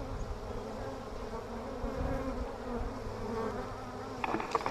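Honeybee colony buzzing steadily as many worker bees fly in and out at the hive, foragers landing with pollen. A few light clicks come near the end.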